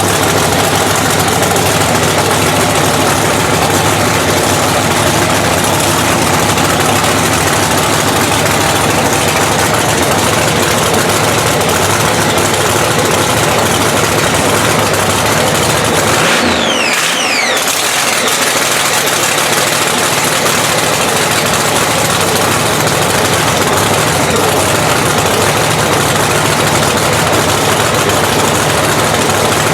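Supercharged Hemi drag-racing engine running at a loud, steady idle, with a brief break in the sound about sixteen seconds in.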